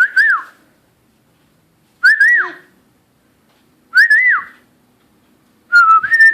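Person whistling a short rising-then-falling note three times, about two seconds apart, then a longer whistle that slowly falls in pitch near the end.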